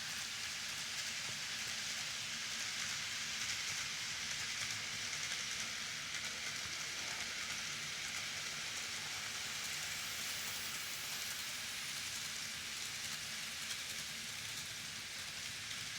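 KATO N-gauge model train's powered car running on track: a steady hissing whir of motor and wheels that starts suddenly and holds even throughout.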